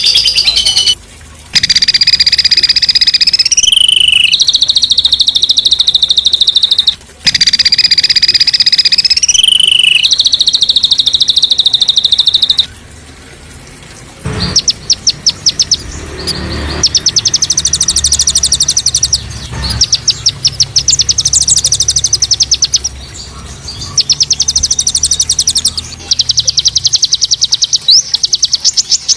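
Songbird singing a 'tembakan' (rapid-fire) style song: long, high, buzzy trills held for several seconds each and rising at the end, then, after a short pause about halfway through, fast runs of sharp repeated notes.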